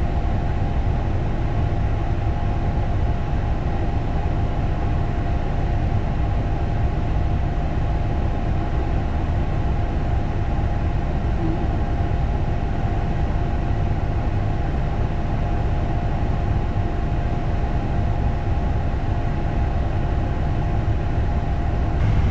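Isuzu NPS 4x4 truck's diesel engine running steadily: an even deep rumble with a faint steady whine above it.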